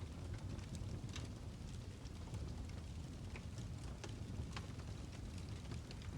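Birch logs burning in a fireplace: irregular sharp crackles and pops over a steady low rumble of the flames.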